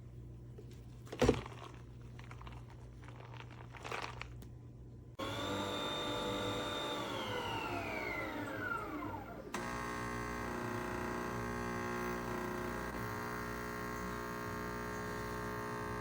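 Nespresso Vertuo Pop+ capsule coffee machine working through a brew cycle. It gives a sharp click about a second in and a softer one a few seconds later. About five seconds in, a motor starts with a steady whine that then falls in pitch. It is followed by a steady, many-toned mechanical hum.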